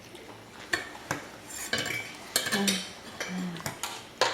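Cutlery and a plate clinking and knocking at the table in scattered sharp taps, with two brief low hums about midway.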